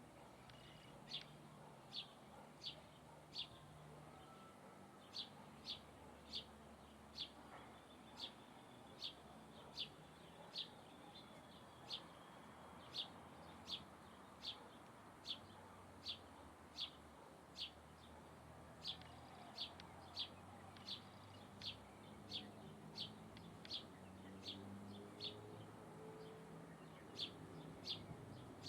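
A small bird calling a series of short, sharp, high chip notes, about one or two a second with a few brief pauses.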